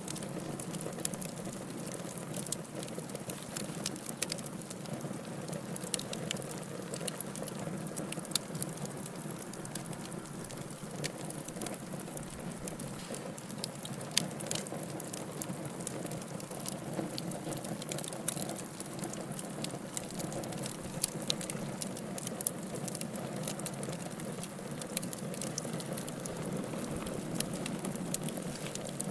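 Wood fire burning in a fireplace: a steady low roar of flames with frequent irregular sharp crackles and pops.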